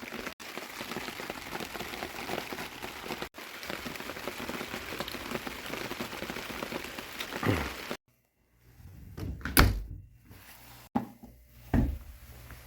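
Steady hiss of rain for about eight seconds, cut off suddenly. It is followed by a quiet room with three or four dull thumps, the first the loudest.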